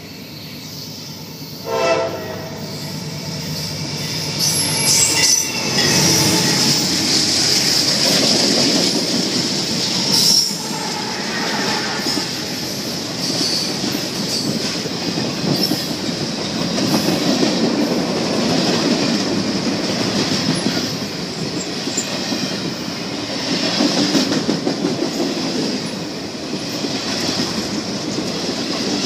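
Empty CSX freight train of waste containers on flatcars rolling past close by. There is a brief horn sound about two seconds in, then a continuous rumble of rolling wheels with rhythmic clickety-clack over the rail joints and a steady high wheel squeal.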